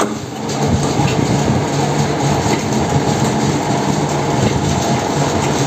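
Lathe running with the freshly reassembled three-jaw chuck spinning on the spindle: a steady mechanical running noise with a low hum.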